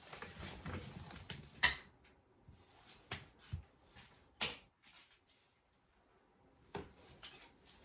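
Scattered light clicks and knocks with soft rustling: small parts being picked up and set down on a workbench, with a quiet stretch past the middle.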